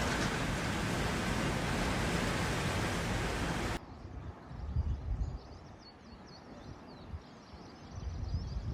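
Steady, even rush of storm wind and water noise that cuts off abruptly about four seconds in. After the cut there is a much quieter stretch of low rumbling gusts with faint high chirps.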